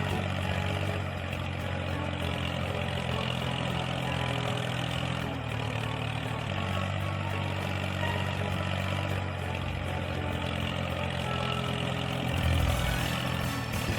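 A truck engine sound effect idling steadily with a low hum.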